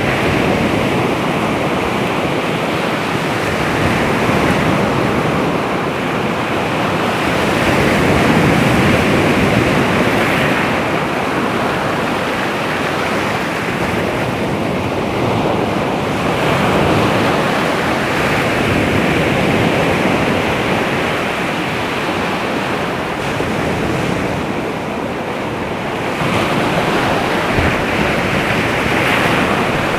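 Baltic Sea waves breaking on the shore: a continuous wash of surf that swells and ebbs every several seconds.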